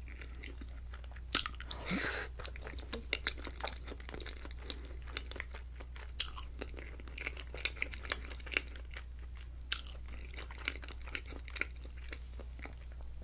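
Close-miked chewing of a mouthful of creamy chicken and shrimp alfredo pasta: many short wet mouth clicks, with a denser, louder patch about two seconds in.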